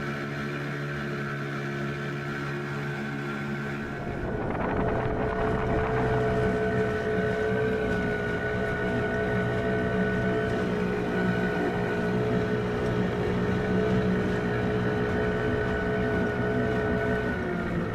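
Boat motor running steadily. About four seconds in it speeds up to a louder, steady run with a whine, as the boat gets under way.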